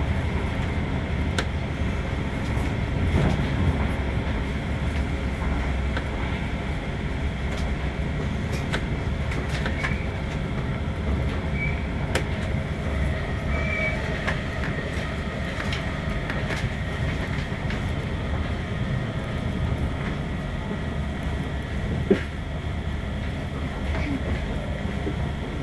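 Steady low rumble of a metronom regional train running along the line, heard from inside the carriage. Scattered clicks and ticks from the wheels and track run through it, with one sharper knock about 22 seconds in.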